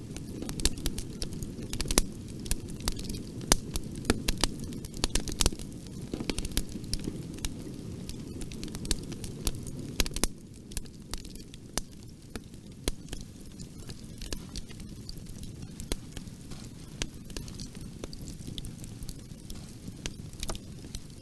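Wood fire in a fireplace crackling, with many sharp pops and snaps over the low, steady rush of the flames. The pops come thick and fast at first and thin out from about halfway.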